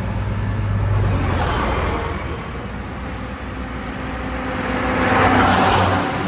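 Heavy diesel vehicle engine running steadily, with a louder swell of rushing noise building about five seconds in and easing off at the end.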